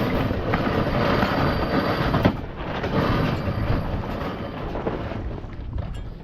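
Wind buffeting the microphone over the rush of water along the hull of a sailboat under way, a steady loud noise.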